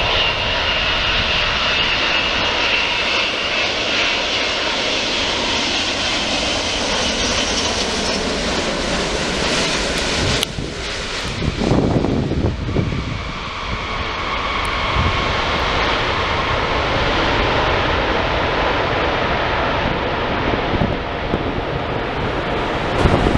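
Wide-body jet airliner engines running, a steady roar with a high whine. About halfway through the sound breaks and turns to a brief rumble, then settles into a jet roar with a lower whine.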